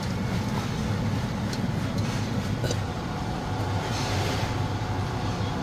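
Truck running with a steady low engine and road rumble.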